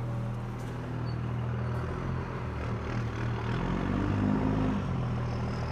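Vehicle engine running steadily, its pitch rising briefly about four seconds in.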